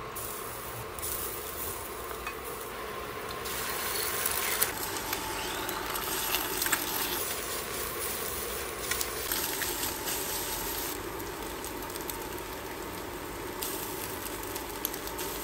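Eggs and garlic frying in oil in a nonstick pan: a steady sizzle with crackles. A few sharp clicks come from the spatula against the pan.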